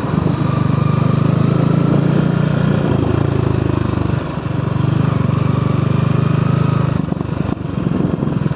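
Motorcycle engine running steadily while riding, its note dipping briefly twice, about four seconds in and again near seven seconds.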